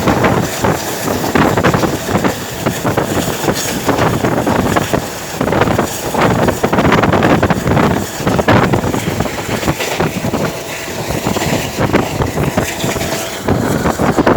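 A moving train heard from on board, its running noise mixed with wind buffeting the microphone in uneven gusts.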